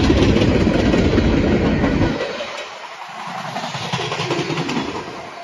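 Freight train cars rolling past at speed: steel wheels clicking over the rail joints over a deep rumble that falls away sharply about two seconds in.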